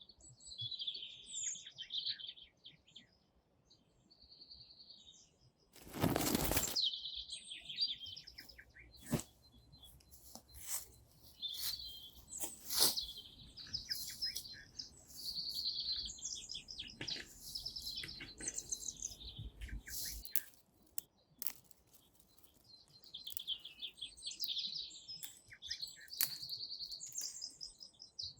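Small songbirds chirping and singing in quick repeated high phrases. A loud, brief rough noise cuts in about six seconds in, and scattered sharp clicks and knocks follow through the middle of the stretch.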